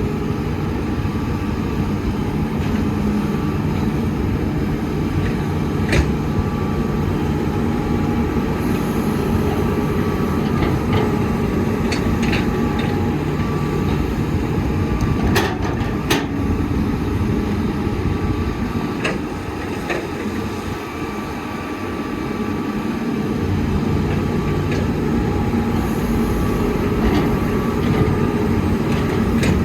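Heavy construction machinery's diesel engine running steadily under work, with a few sharp metallic knocks about six seconds in and again around the middle, and the engine easing off briefly past the midpoint before picking up again.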